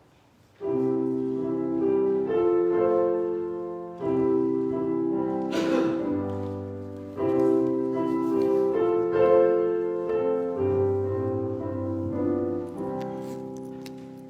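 Piano playing slow chords, the first struck about half a second in and new ones every few seconds, each ringing and fading, dying away near the end. A brief noise sounds about halfway through.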